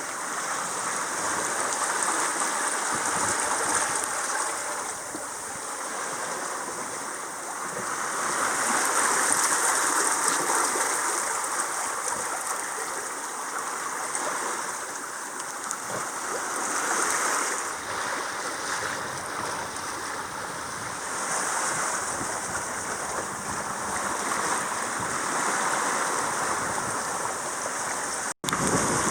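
Sea water rushing and hissing along a sailboat's hull under way, swelling and easing every few seconds as the boat rides the waves.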